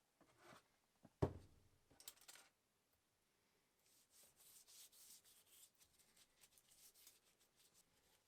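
Hand work at a bench: a single sharp knock about a second in, a couple of short scrapes, then several seconds of quick rubbing or brushing strokes.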